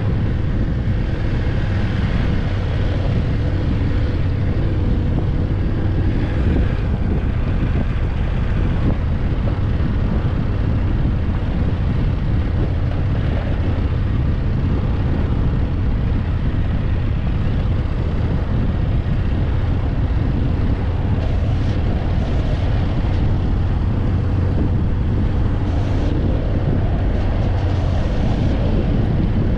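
BMW F850GS parallel-twin motorcycle engine running steadily under way, with wind buffeting the camera microphone.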